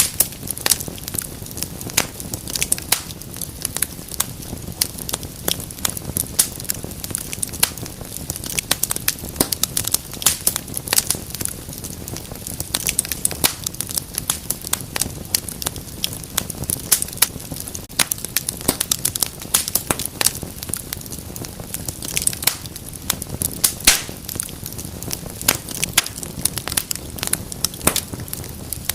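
Wood fire burning in a fireplace, crackling and popping constantly in quick, irregular snaps over a low steady rush of flames.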